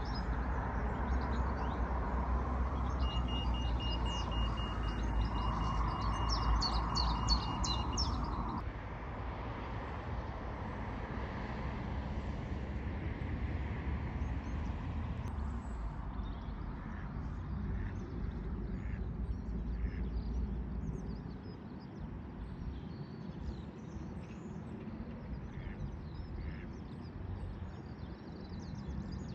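Small birds chirping and singing over a steady low rumble of road traffic. The background drops abruptly about a third of the way in, and scattered chirps carry on later.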